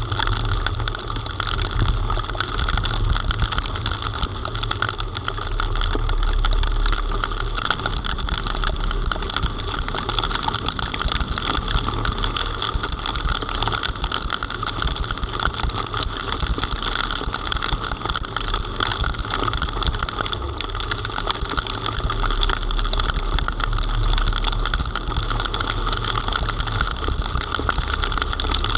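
Heavy rain pelting down in a thunderstorm downpour, a dense steady patter of drops striking close to the microphone, over a steady low rumble.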